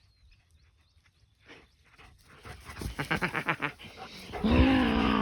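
German Shepherd panting quickly, then a long, loud, drawn-out whining vocalisation that bends in pitch near the end.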